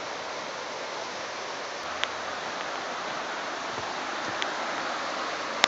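Waterfall and flowing water rushing steadily, with a few sharp clicks, the sharpest near the end.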